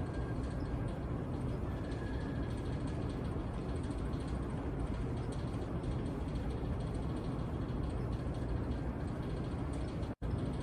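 Steady low rumble of a train at a railway station platform, with a faint brief high tone early on; the sound cuts out for an instant near the end.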